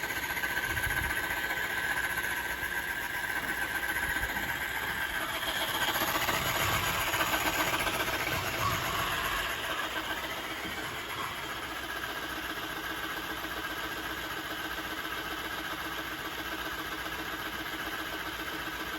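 Deebot T8+ robot vacuum running with its oscillating mopping Pro attachment: a steady mechanical hum with a steady whine, growing a little louder and noisier for a few seconds around the middle. The oscillating mop is very loud.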